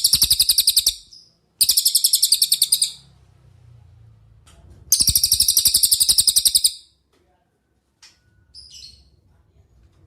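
Cililin songbird singing: three rapid trills, each a fast run of about ten sharp, high repeated notes a second lasting a second or more, with a short pause between the first two and a longer one before the third. A faint short call follows near the end.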